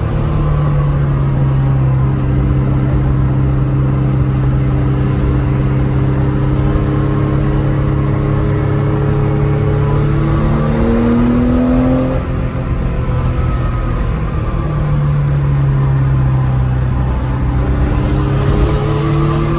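1970 Porsche 911S's air-cooled 2.2-litre flat-six running loud and steady at mid revs, its pitch slowly sagging. The revs rise quickly about eleven seconds in, then drop, and start climbing again near the end.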